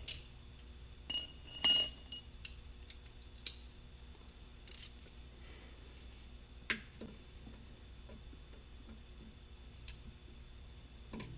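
Scattered metallic clicks and clinks of hand tools working the drain plug on a Polaris Ranger's front differential, the loudest a single ringing clink about two seconds in.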